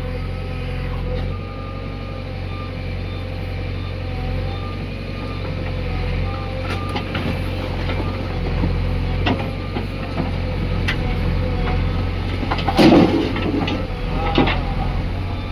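Diesel engines of a backhoe loader and tractor running steadily, with scattered metallic knocks and a louder clatter about 13 seconds in.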